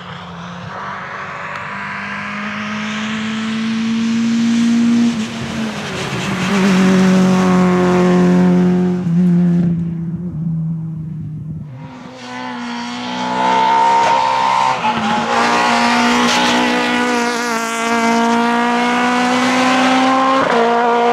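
Naturally aspirated Groupe F2000 rally car engine at full attack, revving high and changing gear in quick steps. The sound fades about ten seconds in, then an engine comes back loud, again revving hard through gear changes.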